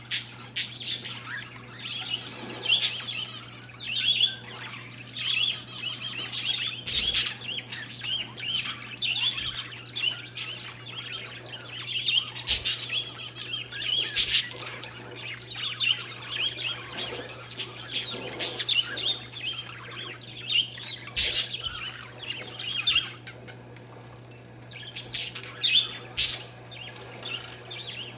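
A flock of parakeets and zebra finches chirping continuously in quick, overlapping high calls, with a sharp, louder call or click standing out every few seconds. A steady low hum runs underneath.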